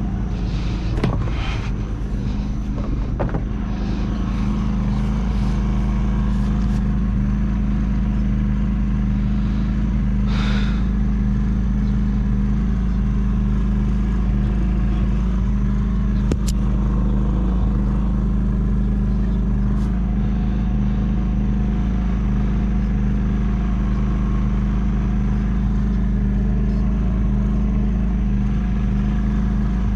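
The diesel engine of a 1976 John Deere 450C crawler dozer running steadily at an even speed, with a few brief clicks and a short hiss over it.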